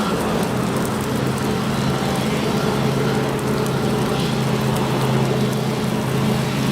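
An engine running steadily with a low, even hum under a constant rushing noise.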